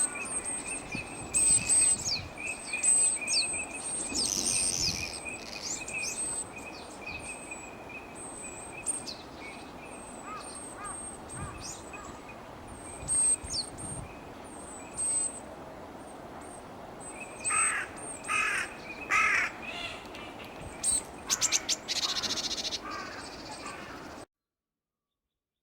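Birds calling: repeated high, thin calls throughout, with a run of four or five louder, harsh calls about two-thirds of the way in. The sound cuts off abruptly near the end.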